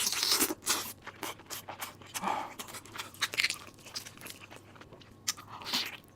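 Close-miked mouth sounds of someone chewing food, with irregular crunchy bites, the loudest right at the start and others around the middle and near the end.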